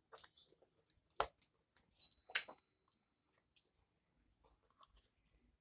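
Mouth sounds of someone chewing a soft homemade ground-beef burrito: scattered wet smacks and clicks, the sharpest about a second in and again past two seconds, then only faint chewing.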